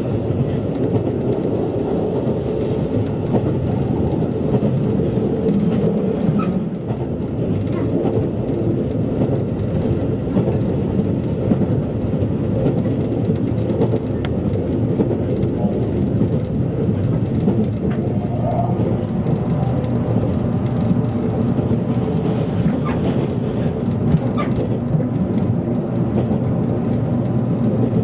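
Running noise of a passenger train at speed, heard inside the car: a steady low rumble of wheels on rail, with a few faint clicks scattered through it.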